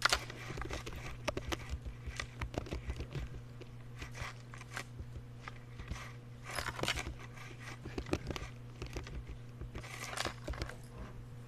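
Irregular light clicks and taps, with short rustling scrapes around the middle and near the end, over a steady low electrical hum.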